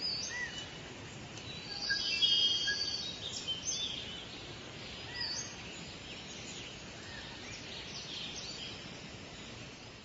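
Outdoor nature ambience of birds chirping over a steady background hiss, with the busiest chirping about two to three seconds in.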